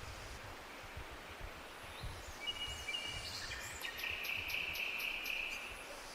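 A songbird singing over a steady outdoor hiss: about two seconds in, high thin held notes begin, then a fast trill of repeated notes, dying away shortly before the end.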